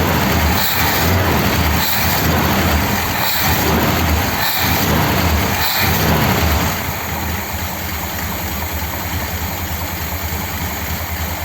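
1957 Ford Thunderbird V8 engine running cold, loud and uneven with a pulsing beat, then dropping to a quieter, steadier idle about seven seconds in.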